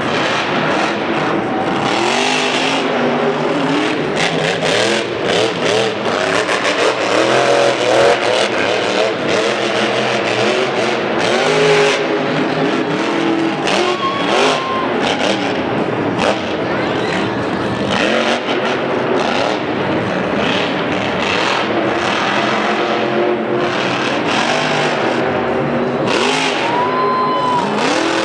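Monster truck engines revving hard, their pitch climbing and dropping again and again, with sharp knocks and bangs scattered throughout.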